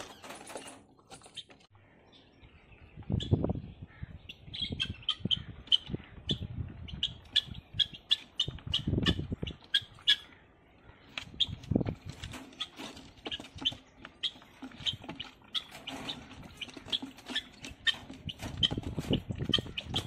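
Caged birds chirping in rapid short calls, with several bursts of wing flapping against the cage.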